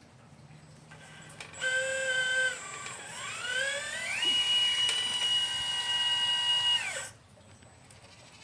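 Electric motor of a 1/12-scale Liebherr 954 model excavator whining. It holds one pitch briefly, then spins up in a rising whine to a steady high pitch for a few seconds before winding down and stopping.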